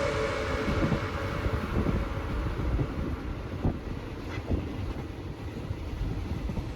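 Steady low rumble of a non-air-conditioned Thai State Railway passenger train running, heard from inside the carriage, with a few short knocks from the wheels and rails.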